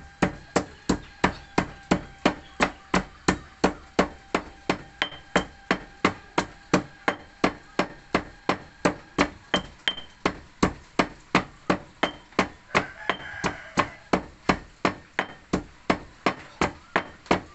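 Pestle pounding soaked rice (khao bue) in a mortar for thickening bamboo-shoot curry, in a steady rhythm of about three strikes a second.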